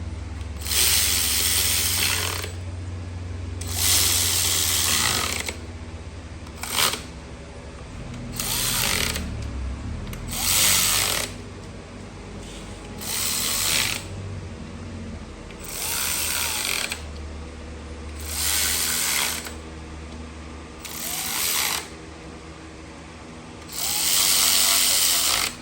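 Powered ratchet running in about ten short bursts of one to two seconds each, driving fasteners while a Nissan KA24DE engine is reassembled. A steady low hum runs underneath.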